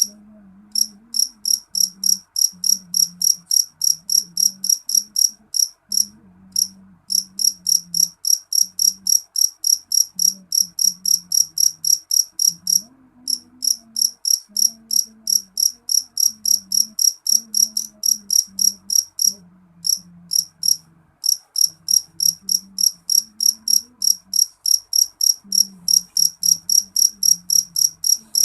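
A cricket chirping: a steady train of short, high chirps at about three a second, broken now and then by brief pauses.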